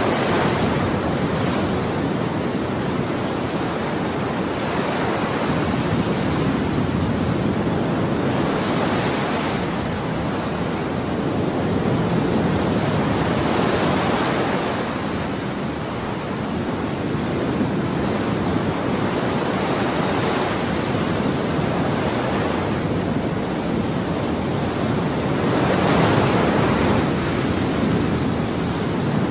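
Ocean waves breaking and washing on a shore: a continuous rush of surf that swells with each breaking wave about every six to seven seconds, then eases back.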